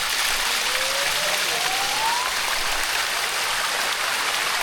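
Steady rush of water flowing over a limestone waterfall. A faint rising tone sweeps upward over it about half a second to two seconds in.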